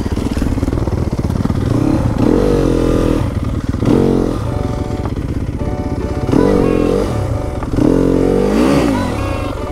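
Dirt bike engine running under load, revved up and back down in four or five short bursts as the bike is ridden off-road.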